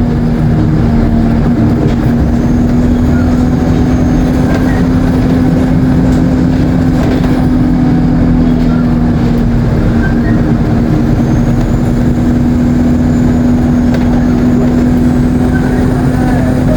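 ADL Enviro 200 bus under way, its engine running with a steady low drone. A faint high turbocharger whine rises and falls about three seconds in and again through the second half.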